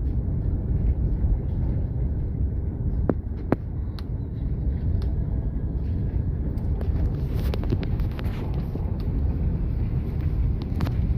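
Vehicle driving downhill: a steady low rumble of engine, tyres and wind, with a few light clicks and rattles.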